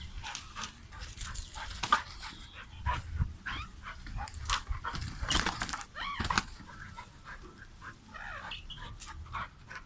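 A dog yipping and whining in short calls while scuffling with a rooster, with quick knocks and scrabbling sounds throughout.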